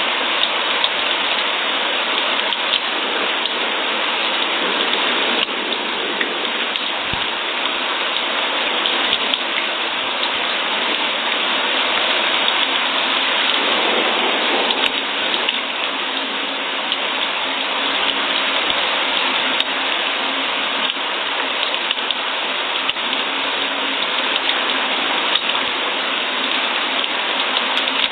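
Steady rain falling, a dense even hiss of many drops with fine scattered patter.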